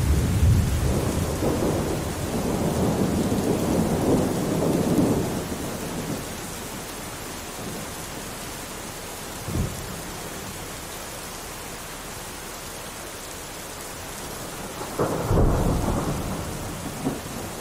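Steady rain with rolling thunder: a long rumble over the first few seconds, a short sharp crack about halfway through, and another rumble swelling up near the end.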